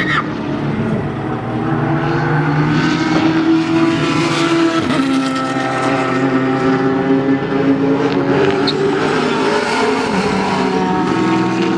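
Race car engines running hard on a track, several at once, their pitch rising and falling as the cars accelerate and back off.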